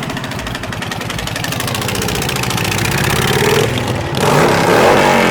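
Car engine revving hard, its pitch climbing in the middle and the sound getting louder about four seconds in.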